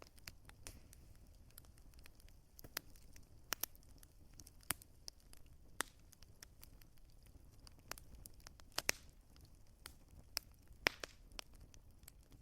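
Wood fire crackling: a low, steady bed with sharp, irregular pops of burning wood, the loudest coming about nine and eleven seconds in.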